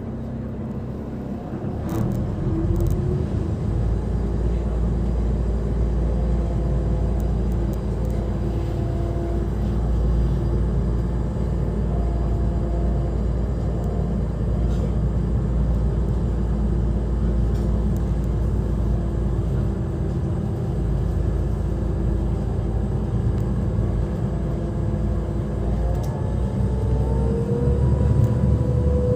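Ferry engine running with a deep, steady rumble that grows louder about two seconds in. Near the end a pitched drone rises slightly and falls away over it.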